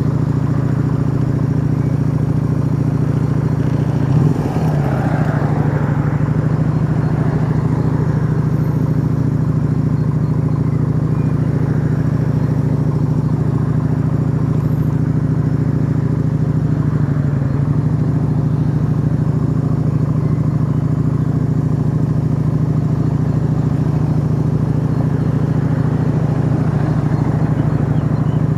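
Yamaha XV125 Virago's small air-cooled V-twin running through a Turbo Kit aftermarket exhaust at a steady cruising speed. Its engine note holds even, with a brief wobble in pitch about four seconds in.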